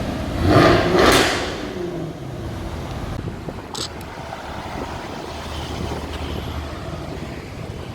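A car driving past close by, a loud rush of engine and exhaust noise peaking about a second in, then fading into steady low engine hum and street traffic. A short sharp click near the middle.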